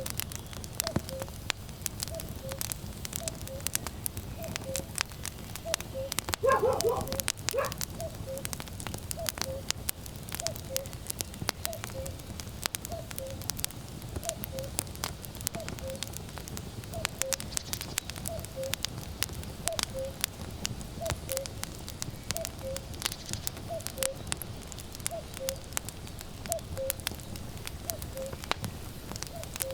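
Firewood burning with dense, steady crackling and popping over a low rumble, while a common cuckoo calls its falling two-note 'cuck-oo' over and over at an even pace. A short, louder animal cry breaks in about six seconds in.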